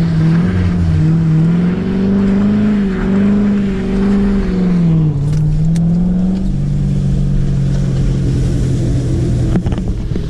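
Chevrolet Corvette V8 revved and held high while a driver tries donuts in the snow, its pitch wavering up and down as the throttle is worked. About two-thirds of the way through it settles to a steadier, lower pitch.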